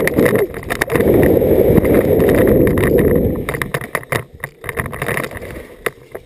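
Downhill mountain bike rolling down a rough dirt trail: heavy rumble and wind buffeting on the microphone, with rapid clatter and knocks from the bike over bumps. The rumble eases off after about three and a half seconds, leaving scattered rattles.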